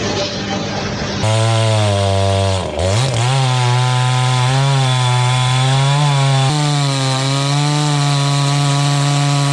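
A steady machine noise cuts about a second in to a chainsaw running at high revs. Its pitch drops sharply as the engine bogs under load near three seconds in, then recovers and holds steady as it cuts through wood.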